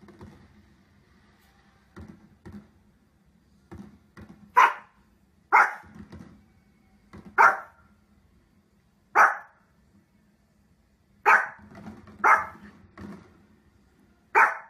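Small fluffy dog barking: seven sharp single barks one to two seconds apart, starting about four seconds in, with a few quieter low woofs before and between them.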